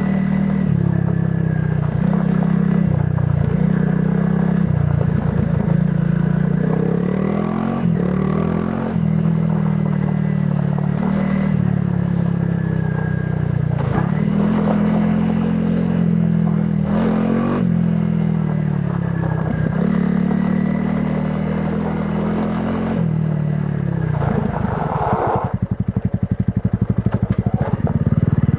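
Honda CRF300 Rally's single-cylinder engine through its stock exhaust, riding: the note rises and falls again and again as the rider opens and shuts the throttle, with a few sharp knocks along the way. Near the end it drops to a slow, low-revving pulse.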